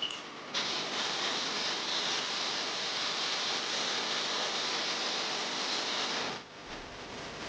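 Water jetting from a hand-held wash nozzle onto a car, a steady hiss that starts about half a second in and stops abruptly about six seconds later.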